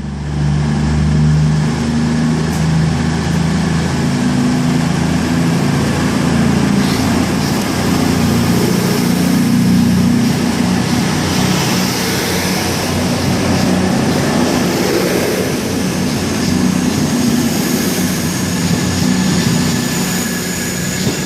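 A CrossCountry Class 221 Super Voyager diesel-electric unit pulling out and accelerating past, its underfloor diesel engines running steadily under load. A faint high whine joins about halfway through.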